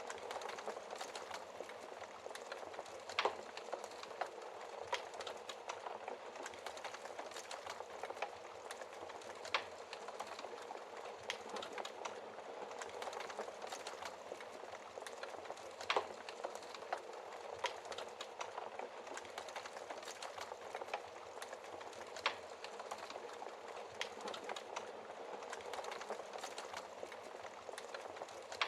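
Wood fire burning in a fireplace: a steady dense crackle with scattered louder pops, a few sharp ones standing out about 3, 10, 16 and 22 seconds in.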